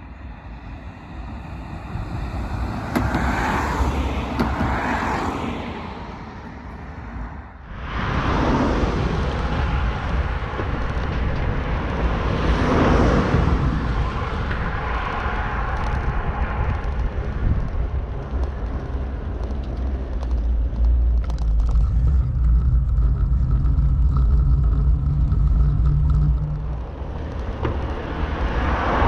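Motor vehicles passing one after another, each swelling and fading, over a heavy low rumble of wind on the microphone. Near the end a steady engine drone runs for several seconds.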